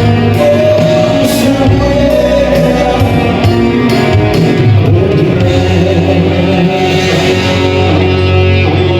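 Live band music with a singer, electric guitar and a steady bass line, loud and continuous.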